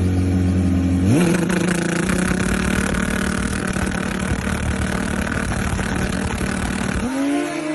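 Motorcycle engine idling, then revved hard about a second in and held at high revs in a dense, steady run for about six seconds before dropping back sharply near the end.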